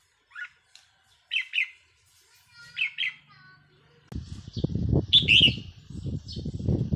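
Red-whiskered bulbul calling in short, bright chirping phrases. From about four seconds in, a loud, irregular low rumbling sets in under the continuing calls and is the loudest sound.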